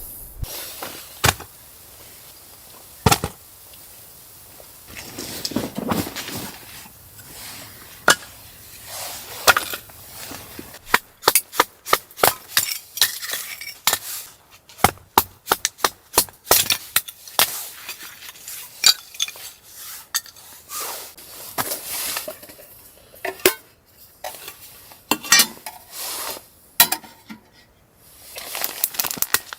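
Irregular sharp knocks and clinks of objects being handled, a few at first and then many in quick succession from about ten seconds in.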